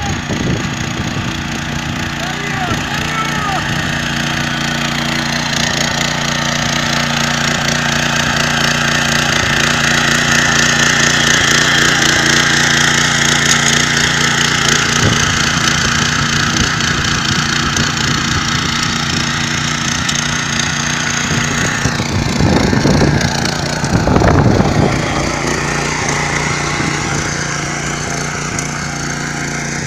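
Yağmur YET 300 motor hoe running steadily under load as its rotary tines churn the garden soil, a constant engine hum over a gritty scraping. It goes louder and rougher twice near two-thirds of the way through.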